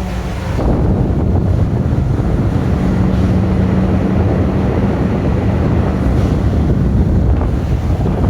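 Exhaust fan running: a steady low hum under a rush of air buffeting the microphone, getting louder about half a second in. The fan is blowing air in rather than exhausting it out.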